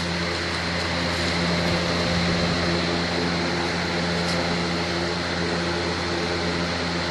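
Lasko electric fan running steadily: a constant motor hum over an even rush of moving air.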